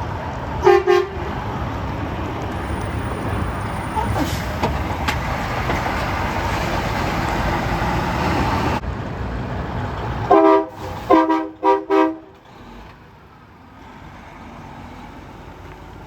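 A truck horn gives one short toot about a second in, then a quick run of several short toots near the end, over steady roadside traffic noise.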